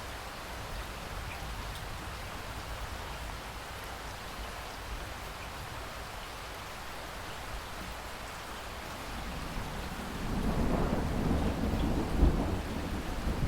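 Steady rain falling, with a deep roll of thunder rising about ten seconds in and rumbling on, loudest a couple of seconds later.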